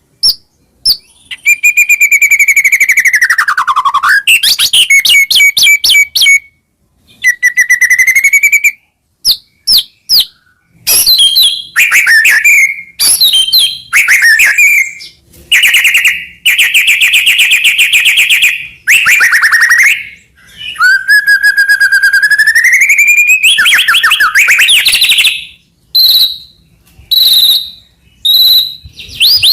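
White-rumped shama singing a loud, varied song: clear whistles that slide down and back up in pitch, fast rattling runs of repeated notes, and short high notes, in phrases broken by brief pauses.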